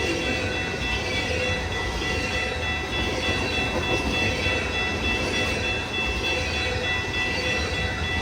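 Freight train rolling past: a steady rumble of wheels on rail, with a few steady high-pitched ringing tones held over it.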